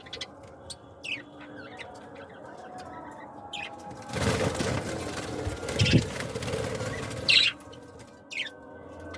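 Small caged pet birds giving short, separate high chirps, with a few seconds of fluttering wings and cage rustling about four seconds in.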